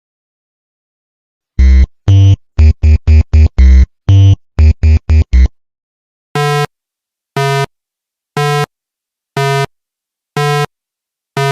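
Synthesized electronic tones: a quick, uneven run of about fourteen short buzzy notes, then about six evenly spaced beeps, roughly one a second.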